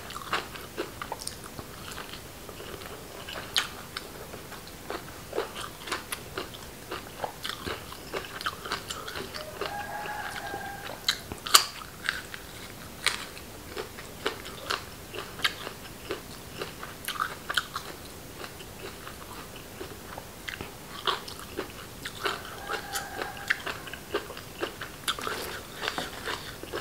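A person eating close to the microphone: wet chewing with sharp crunches and mouth clicks at irregular intervals.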